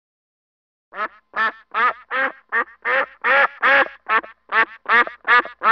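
Waterfowl calling: a rapid series of about a dozen short calls, roughly three a second, starting about a second in.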